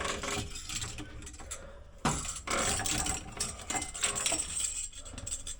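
Irregular clinks, rattles and handling noise as parts of a diesel heater installation kit are picked up and moved about, louder from about two seconds in.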